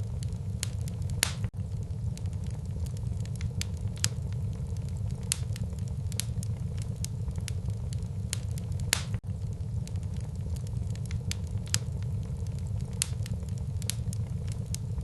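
Wood fire burning in a fireplace: a steady low rumble of flames with irregular sharp crackles and pops from the logs. The sound drops out for an instant twice.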